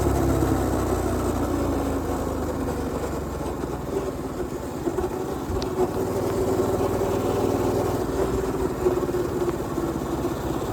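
Mini bike's Predator 212 single-cylinder four-stroke engine running at a fairly steady speed while riding, dipping a little in loudness through the middle before picking back up.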